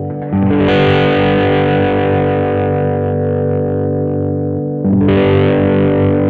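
1982 Vantage VE-550 electric guitar played with distortion: a chord struck about a third of a second in and left to ring, then another struck near the end and held.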